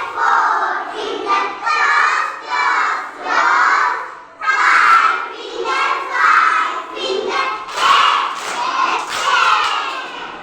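A group of children chanting a Hindi poem together in unison, loudly, in short rhythmic phrases about one a second.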